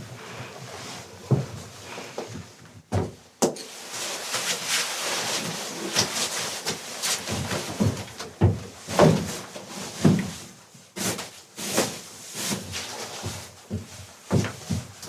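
Irregular knocks and thumps, a dozen or so, as objects are handled, over a steady hiss.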